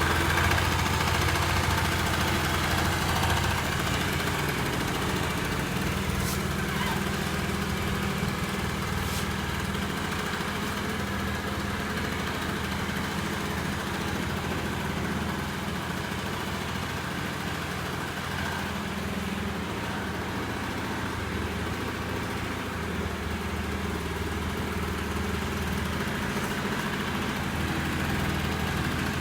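Honda Lead SS50 (AF10) scooter's small two-stroke engine idling steadily.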